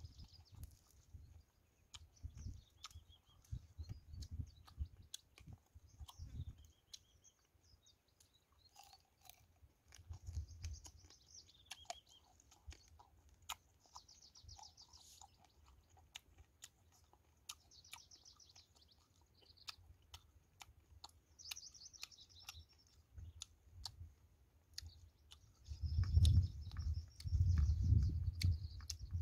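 Chewing and crunching of crispy fried field mouse, with small birds chirping and trilling on and off. Low thumping sounds grow louder near the end.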